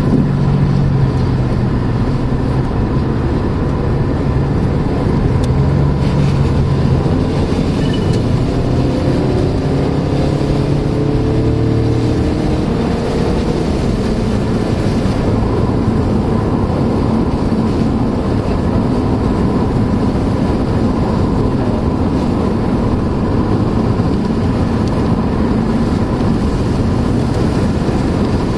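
Inside a moving vehicle's cabin: steady tyre and wind noise with a low engine hum. About eight seconds in, a few tones climb in pitch for several seconds as the vehicle speeds up.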